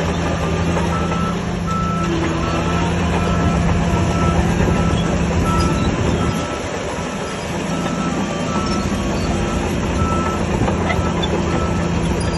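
Heavy earthmoving machine's engine running under a reversing alarm that beeps at an even pace, roughly two beeps a second. The engine eases off briefly a little past the middle.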